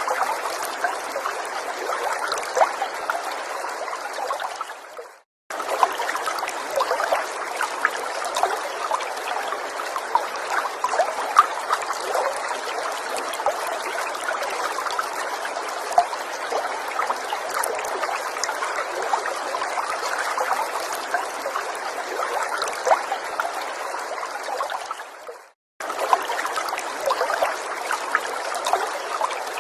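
Small forest stream trickling, a steady water rush full of small splashes and drips. Twice, about five seconds in and again about four seconds before the end, it fades out to a moment of silence and then cuts straight back in, as at a loop splice.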